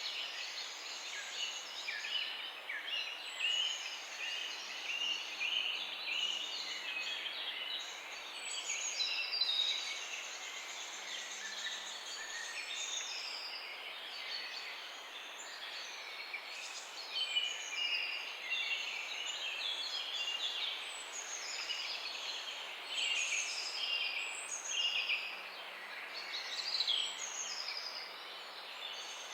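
Many small birds chirping and trilling at once in a continuous chorus of short, high calls over a steady background hiss.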